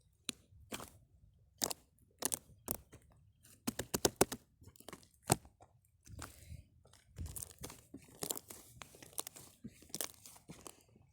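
Irregular crunching and crackling clicks, a few to several a second, from something being handled up close.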